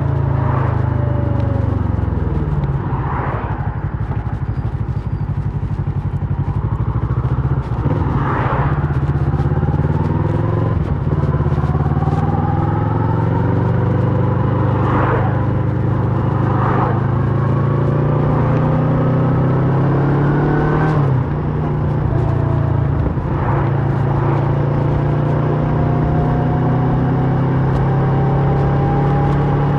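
2008 Kawasaki Versys 650's parallel-twin engine through a Mivv slip-on exhaust, pulling through the gears: its pitch climbs and then falls back at each shift, about half a dozen times, before it holds steady near the end.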